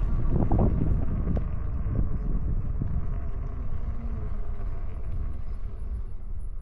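Wind buffeting the microphone with tyre rumble from an e-bike rolling along a trail, a steady low rush that eases slightly toward the end.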